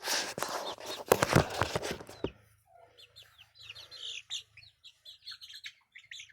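Young chickens flapping their wings for about two seconds in a loud scuffle with a few knocks, then a run of short, high chirps and peeps.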